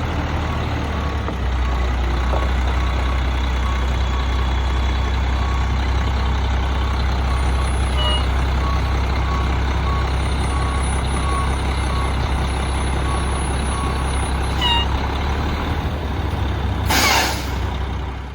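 Volvo Xpeditor rear-loader garbage truck's diesel engine running steadily while its backup alarm beeps repeatedly, the beeps stopping near the end. Then a sharp hiss of the air brakes.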